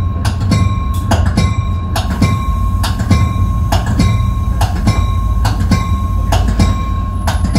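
Caltrain gallery-set cab car running along the track, heard from inside the cab: a steady low rumble with a regular rhythm of wheel clicks over the rails, about two to three a second, and a steady high whine underneath.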